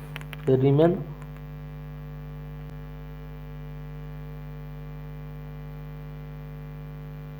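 Steady electrical mains hum with a stack of higher overtones, and one short spoken word about half a second in.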